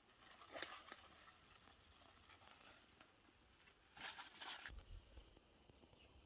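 Faint rustling and crunching in two short spells, briefly about half a second in and again for about half a second around four seconds in, followed by a low rumble.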